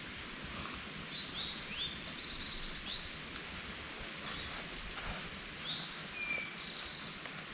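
Wild birds singing: a series of short high notes, some sliding up into brief trills, and one lower whistle about six seconds in. Under the birdsong runs a steady outdoor hiss.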